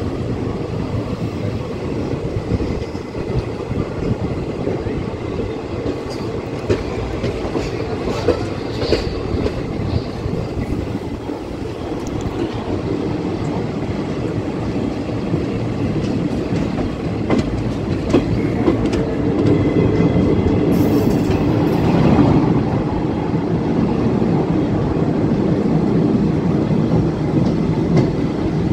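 Passenger train running, heard from aboard: a steady rumble of wheels on the rails with clickety-clack over the rail joints, growing slowly louder.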